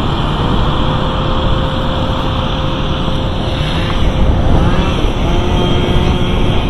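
Steady road-traffic noise with a heavy low rumble, and a faint steady whine running through most of it.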